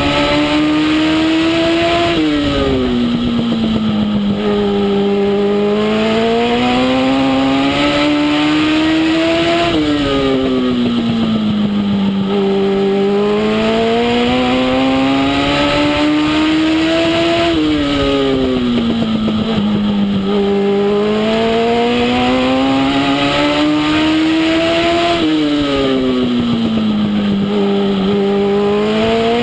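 Legend car's Yamaha four-cylinder motorcycle engine at racing speed. It climbs in pitch through each straight, then falls off sharply as the throttle lifts for the turn, and climbs again out of it. This happens four times, about every seven and a half seconds: lap after lap of a short oval.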